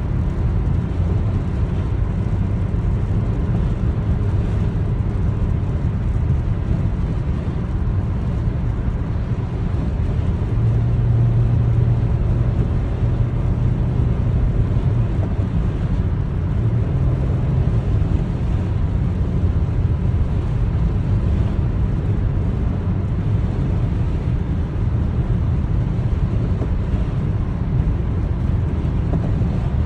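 Steady low rumble with a low hum in it, unchanging throughout apart from the hum swelling for a few seconds about a third of the way in.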